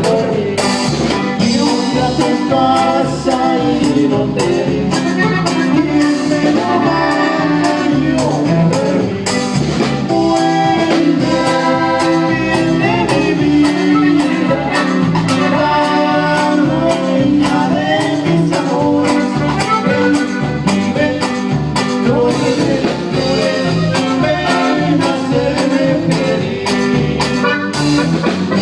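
Norteño band playing a song with sung vocals over a steady, even beat, in a sound check.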